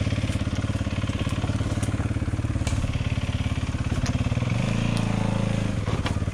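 Small dirt bike engine running at low revs with an even pulse, blipped up briefly about four and a half seconds in and then settling back.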